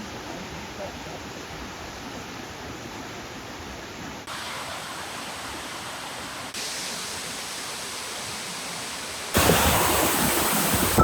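Steady rushing of flowing water from a stream and waterfall, jumping louder in steps at sudden cuts and loudest for the last second or two.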